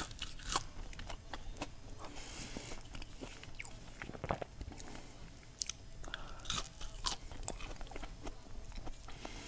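A person biting into and chewing a double-fried potato French fry close to a clip-on microphone, with small, irregular crunches throughout. The fry is not super crispy, crunching mainly on its crispy edges.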